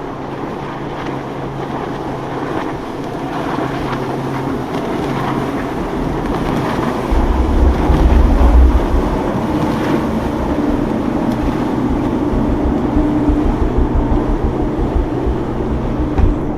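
Boat engines running as boats pass through an inlet, with wind buffeting the microphone, heaviest about seven to nine seconds in.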